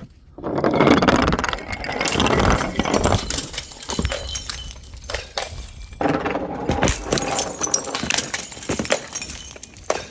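Glass bottles breaking and clattering: two long runs of dense crunching and clinking, split by a short break about six seconds in, the second run with some ringing tones.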